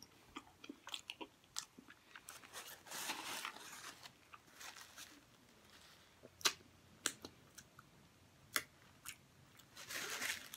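Close-up chewing and wet mouth clicks as someone eats a seafood boil and licks sauce from their fingers, with a paper towel rustling near the end.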